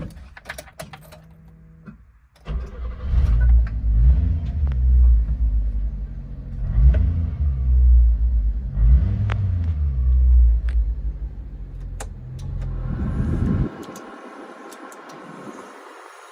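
1996 Subaru Sambar Dias's 660cc engine starting after a few clicks and being revved about four times, each rev rising and falling. Near the end it drops to a quieter, steady running sound.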